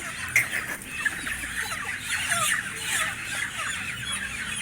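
Many broiler chickens squawking and clucking at once, in short, overlapping cries.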